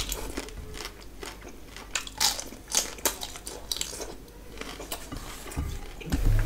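A person chewing a mouthful of rice and curry close to the microphone, with irregular wet mouth smacks, the loudest about two to three seconds in.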